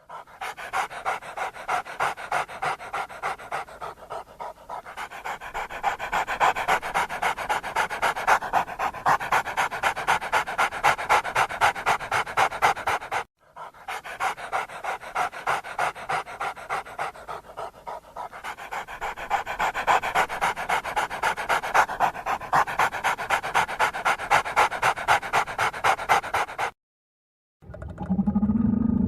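A dog panting rapidly and rhythmically, about three to four breaths a second, with a brief break about halfway through. The panting stops shortly before the end, and a lower-pitched animal call begins.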